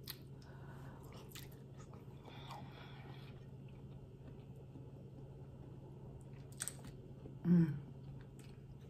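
Faint chewing and mouth clicks of a person eating, with a short voiced "mm"-like sound about seven and a half seconds in, over a steady low hum.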